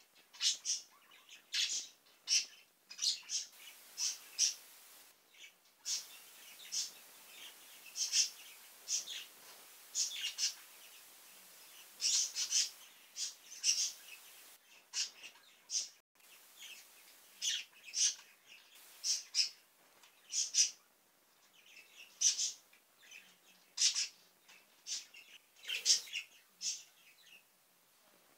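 A bird chirping: short high chirps, one or two a second, at uneven intervals.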